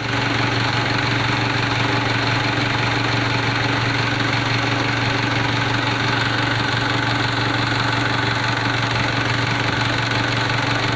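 Mitsubishi 4D56 common-rail four-cylinder diesel engine idling steadily.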